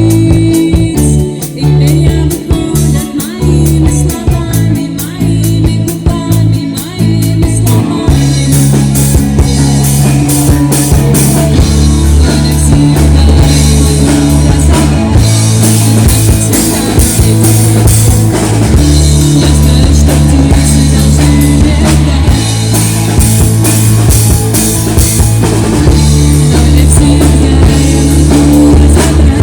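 Live rock band playing, with drum kit and guitar; the sound fills out as the full band comes in about eight seconds in.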